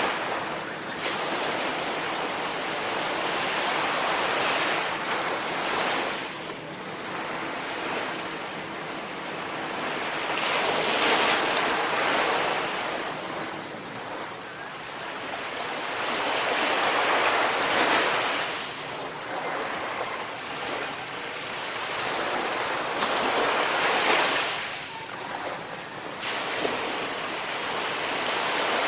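Sea waves breaking on a shore, the surf swelling and falling back in slow surges about every five or six seconds.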